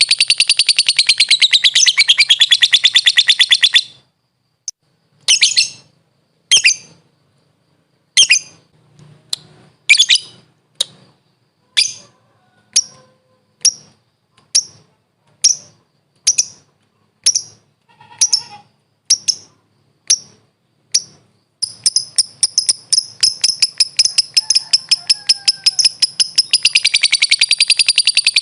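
A lovebird (Agapornis) calling: a fast, shrill continuous chatter, then a long run of single sharp chirps about one a second, then a fast continuous chatter again from about three-quarters of the way in.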